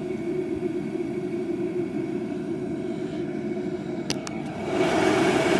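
DeWalt 68,000 BTU propane forced-air heater running on a turned-up setting: a steady fan-and-burner rush with a faint high whine. Two sharp clicks come about four seconds in, and the rush grows louder near the end.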